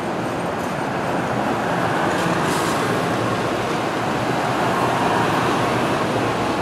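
Metro-North electric multiple-unit commuter train rolling past at close range: a steady rumble and rush of wheels on rails, growing slightly louder.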